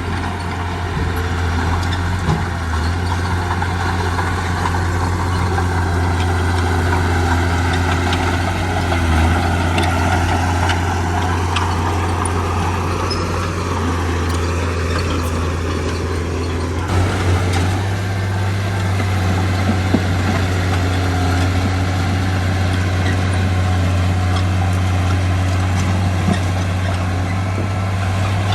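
Heavy diesel engine of construction machinery running steadily with a deep hum, its note stepping slightly higher about two-thirds of the way through.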